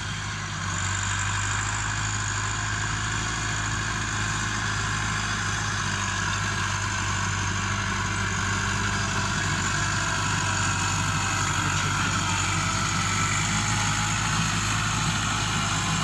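Massey Ferguson 385 tractor's Perkins diesel engine running steadily at idle, with a low, even engine note.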